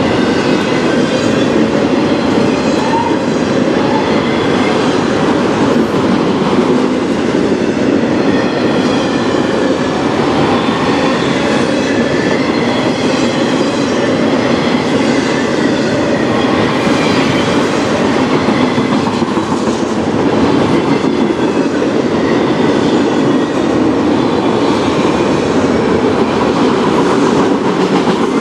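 Freight train of autorack cars rolling past close by: a steady, loud noise of steel wheels on the rails, with faint high-pitched wheel squeals coming and going.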